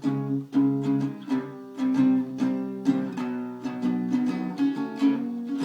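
Acoustic guitar strumming chords in a steady rhythm, an instrumental break with no singing.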